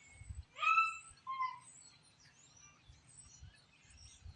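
Two short, high animal calls about a second in, the first rising in pitch, over faint bird chirps.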